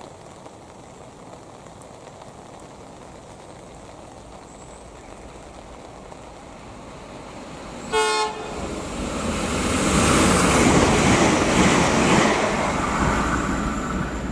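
Irish Rail 22000 Class diesel multiple unit approaching and passing through the station at speed. A short horn blast sounds just after halfway, then the train goes by with a loud rush of wheels and engine that eases toward the end.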